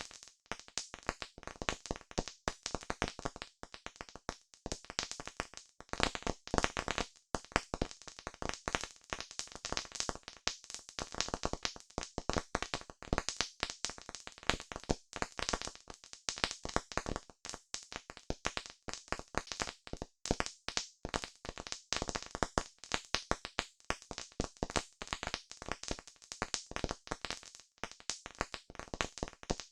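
Campfire crackling: a dense, irregular run of sharp pops and snaps from burning wood.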